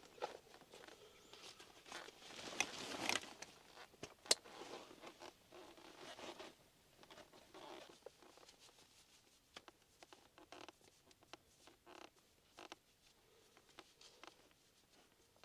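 Quiet handling noises: rustling, a zipper-like rasp and scattered small clicks and knocks, with one sharp click about four seconds in.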